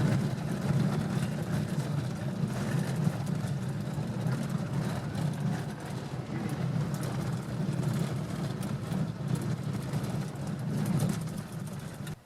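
A vehicle running steadily: a low engine hum with rattling and clicking over it, cutting off suddenly at the end.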